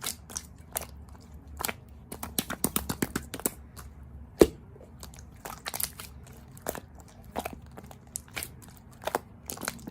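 Close-miked crunchy food being bitten and chewed: irregular crisp crunches, with a sharper loud crunch about four seconds in.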